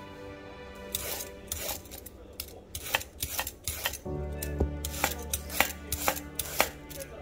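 Kitchen knife chopping vegetables on a cutting board, sharp irregular strokes about two to three a second. Soft background music underneath, louder from about four seconds in.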